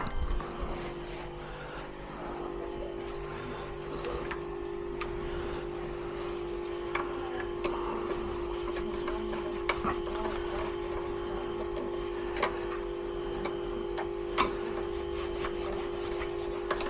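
A steady mechanical hum, with a few sharp clicks or knocks scattered through it.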